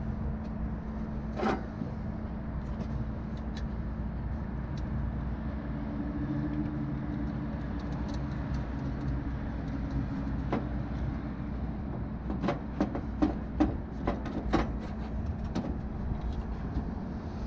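Scattered metallic clicks and clanks of hand-tool work on the truck's engine bay: one knock early, one around ten seconds in, and a quick run of clanks from about twelve to fifteen seconds in. A steady low hum runs underneath.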